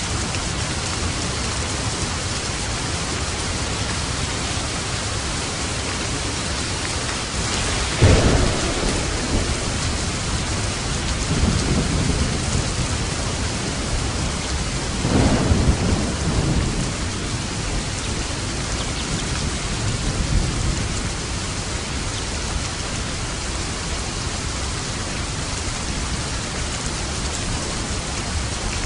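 Steady heavy rain with rolling thunder: a sharp thunderclap about eight seconds in, followed by several more rumbles over the next dozen seconds before the rain goes on alone.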